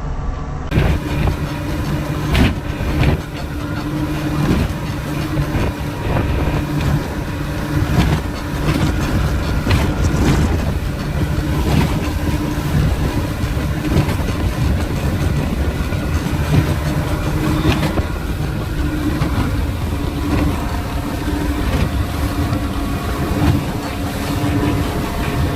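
Speedboat engine running steadily at speed, with sharp thuds now and then as the hull slams down on the waves.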